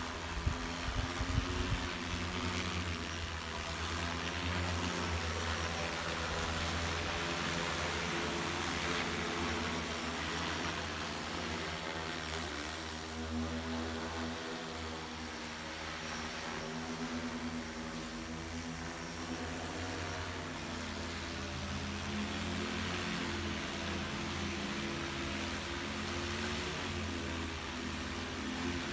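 Multirotor agricultural spraying drone in flight, its rotors whirring steadily with a hum that rises and falls in pitch as the motors change speed.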